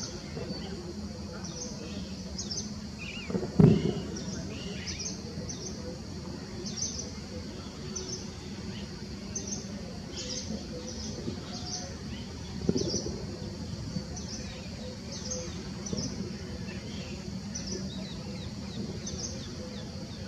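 Birds chirping: short, high, falling chirps repeated irregularly over a steady high hiss. A loud low thump comes a few seconds in and a smaller one past the middle.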